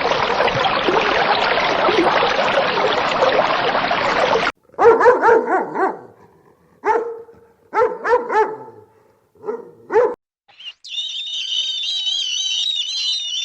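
A steady rushing noise that cuts off abruptly, then a dog barking about seven times in short groups, then a high, wavering cry.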